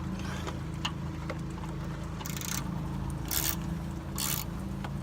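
A 1/4-inch drive ratchet tightening a shock mounting nut: four short rasping ratchet strokes about a second apart, starting about two seconds in, over a steady low hum.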